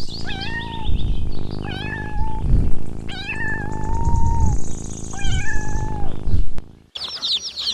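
Kitten meowing, about four high calls in a row that rise and then hold, the third one the longest.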